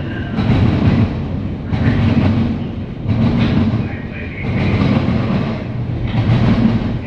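CSX intermodal freight train's cars rolling past, a loud low rumble of wheels on rail that swells and eases about every second and a half.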